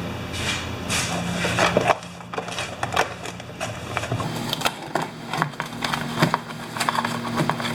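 Irregular clicks and light knocks of parts being handled on a workbench, over a low steady hum that stops abruptly about four seconds in.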